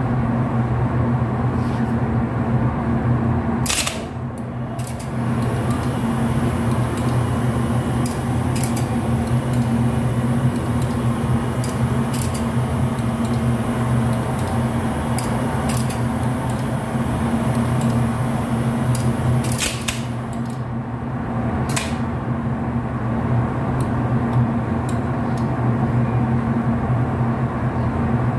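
Steady low hum with sharp clicks every few seconds.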